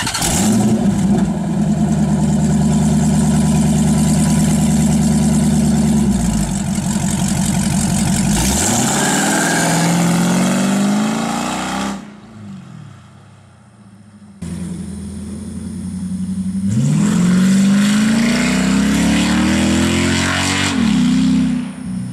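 5.7-litre Hemi V8 of a Dodge Charger with no mufflers, exhaust dumped straight out of short-tube headers through catless mid-pipes, revving very loud. It holds high revs for several seconds and falls back, goes quieter for a couple of seconds, then climbs in pitch again and drops off near the end.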